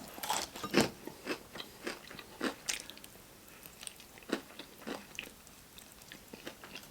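Close-miked chewing and crunching of crispy fried chicken coating, irregular crackly crunches, the loudest about a second in, fading to softer chewing.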